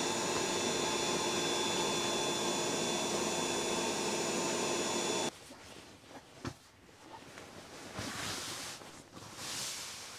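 A small electric blower motor runs with a steady whir and a few fixed tones, then cuts off abruptly about five seconds in. Soft rustling and a few light clicks follow.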